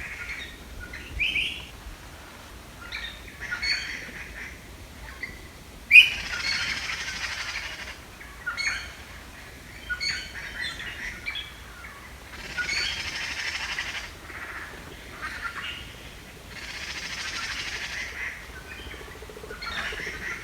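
Birds chirping and calling, broken by three longer bursts of rapid, harsh chattering, each lasting a second or two.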